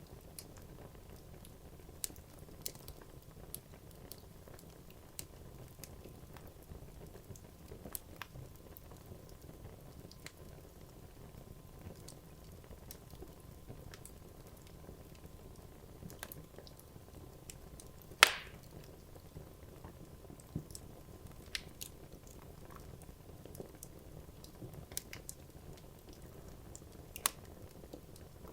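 Wood logs burning in a fireplace: a low, soft rumble of flame with scattered sharp crackles and pops. One pop, about two-thirds of the way through, is much louder than the rest.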